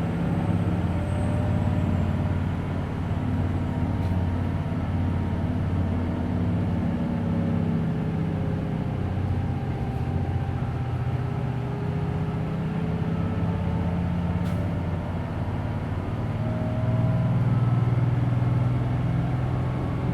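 Interior running sound of a Hino Blue Ribbon City Hybrid diesel-electric city bus under way, its engine note rising and falling as the bus drives, heard from inside the passenger cabin.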